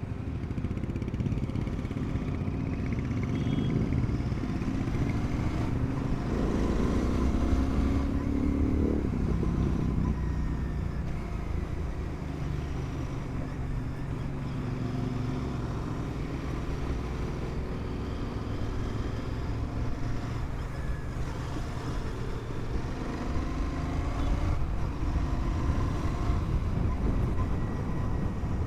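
Motorcycle engine running while being ridden, its pitch rising under throttle and falling with gear changes. One long climb about six seconds in ends in a sharp drop about three seconds later, and another rise comes near the end.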